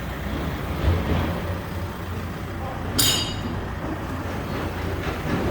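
Used Daewoo bus diesel engine running steadily with a low rumble. A single sharp metallic clink comes about three seconds in.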